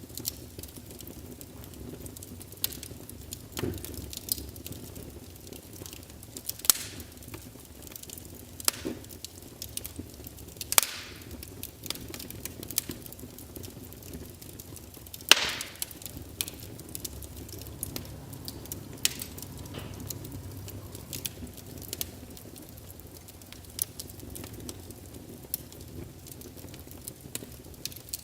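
Wood fire crackling steadily, with irregular sharp pops and snaps over a low rumble of the flames; the loudest pops come about 7, 11 and 15 seconds in.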